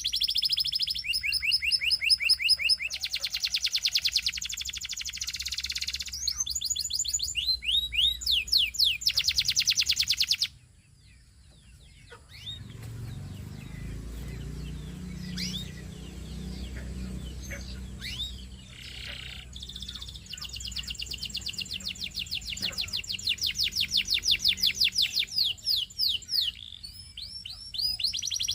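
Canary singing: rapid rolling trills and fast runs of repeated notes. The song breaks off suddenly about a third of the way in, leaving a quieter stretch of low background rumble with only scattered chirps, and the trilling resumes about two-thirds of the way through.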